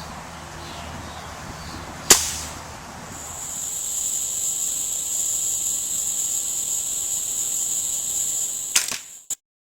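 A single sharp crack about two seconds in, followed by a steady, high-pitched drone of insects that continues, with a smaller click near the end before the sound cuts off abruptly.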